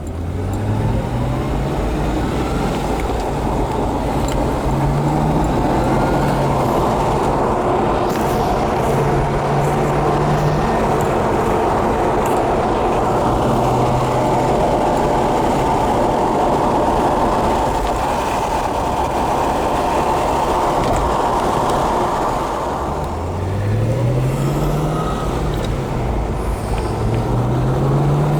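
1995 Chevrolet Corvette C4's 5.7-liter V8 being driven. The engine note rises as the car accelerates, then holds fairly steady while cruising, and near the end climbs twice more as it pulls through the gears, over continuous road and wind noise.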